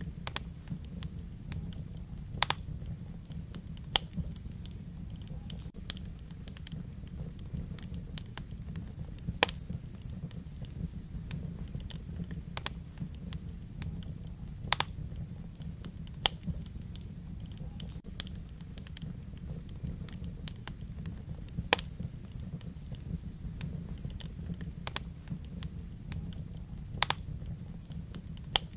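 Wood fire burning in a fireplace: a steady low rumble with sharp crackles and pops scattered irregularly, a louder pop every few seconds.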